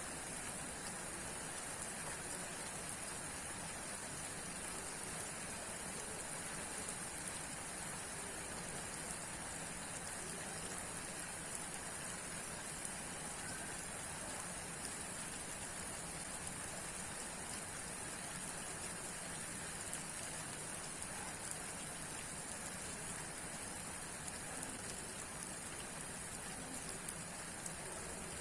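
Steady rainfall, an even hiss of falling rain with faint scattered drop ticks.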